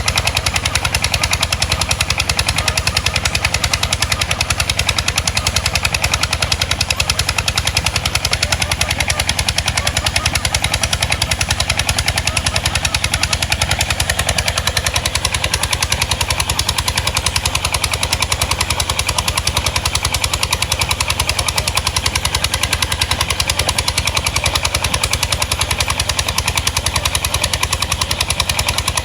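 Boat engine running steadily, a fast, even chugging of exhaust pulses.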